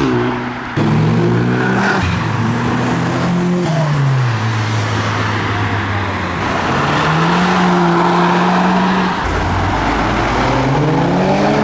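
Car engines driving past: one engine's pitch falls as it slows about four seconds in, another holds steady, and an engine revs up, rising in pitch, near the end.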